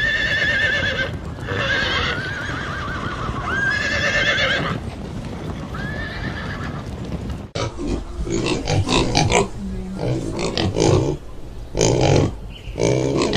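Animal calls: several high, wavering cries over the first seven seconds, then an abrupt change to a run of shorter, choppier sounds.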